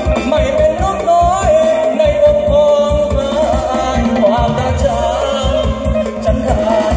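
Music played loud through a large PA sound system: a heavy, pounding bass beat under a wavering lead melody line.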